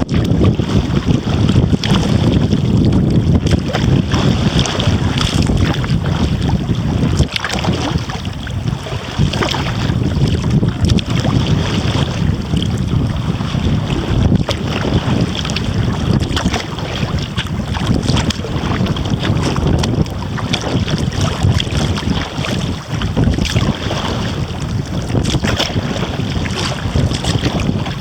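Strong wind rumbling over a small camera microphone behind a furry windscreen, with water splashing and lapping around a kayak.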